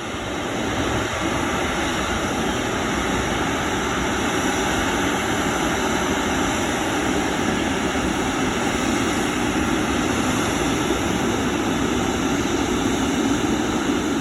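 Jet airliner's engines heard as a steady wash of noise, building over the first second and growing slightly louder near the end.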